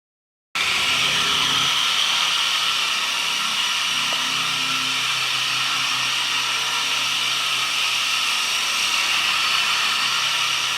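A small high-speed electric motor running steadily with an even whine and hiss, starting abruptly about half a second in and cutting off sharply at the end.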